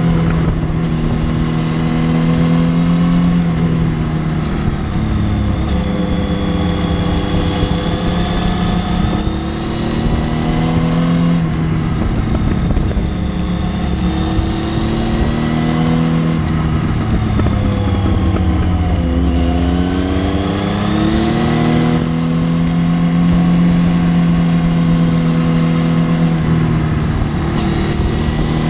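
Triumph Tiger 800's inline three-cylinder engine running under way, its note holding steady for long stretches, dipping about ten seconds in and falling then climbing again around nineteen to twenty-one seconds in as the bike slows and picks up speed.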